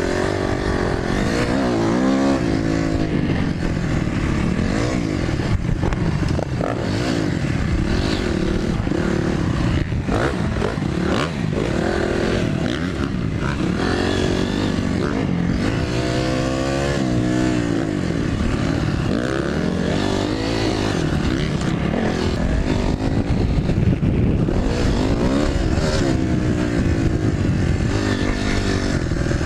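Dirt bike engine riding a motocross track, its pitch rising and falling again and again as the throttle opens and closes.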